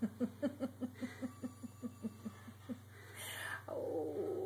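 Havamalt puppy vocalizing at play: a quick run of short low grunts, about five a second, that fade out, then a rough whine near the end.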